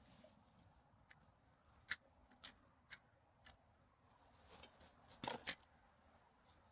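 Scattered sharp crackles and rustles of dry material being disturbed, about six of them, the loudest pair a little after five seconds in.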